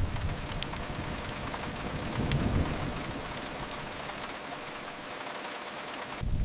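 Steady rain, an even hiss, with a few faint sharp clicks over it. A low rumble underneath dies away over the first few seconds and comes back abruptly near the end.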